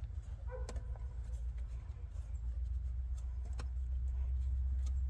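A few sharp metallic clicks and a brief squeak as a wrench works loose the injector line nuts on a VW Jetta TDI diesel engine, over a steady low rumble.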